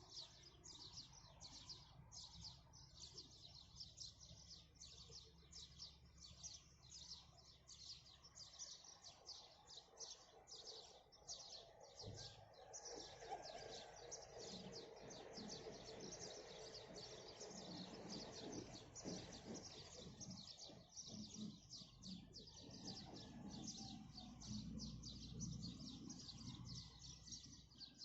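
Many small birds chirping in a dense, continuous chorus of quick high notes, several a second, at sunrise. Fainter, lower sounds join from about twelve seconds in.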